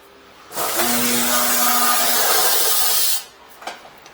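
Hand-held electric power tool spinning up and running steadily for about two and a half seconds, then cutting off.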